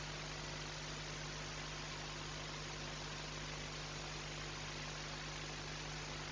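Steady hiss with a low electrical hum underneath: the recording's own background noise, with no bird calls or other distinct sounds.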